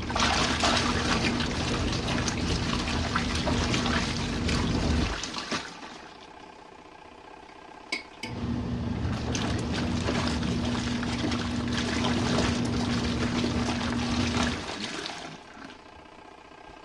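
RV washing machine agitating in its standard-mode main wash: the motor hums and the water sloshes for about five seconds, stops for about three, then runs again for about six seconds and stops near the end. A sharp click comes just before the second run.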